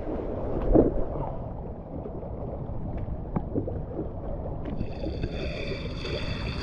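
Overflow water rushing over a shallow surface, with wind buffeting the microphone and a few faint knocks. Near the end a steady high-pitched whine made of several tones joins in for about two seconds.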